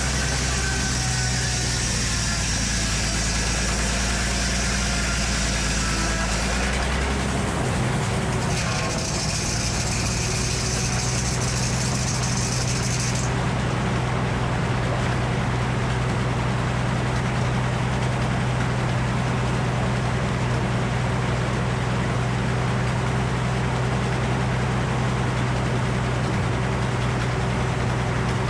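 Engine running steadily, with a high-pitched whine over it that stops about halfway through.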